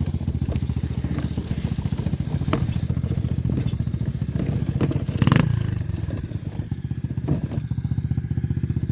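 Dirt bike engine idling with a steady, fast putter. About five seconds in, a brief louder burst rises over it.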